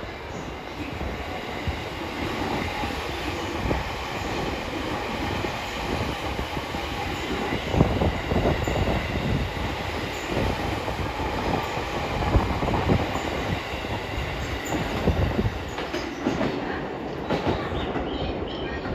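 JR East E257 series 2000 nine-car electric train passing: a steady rumble of steel wheels on rail with occasional sharp clacks.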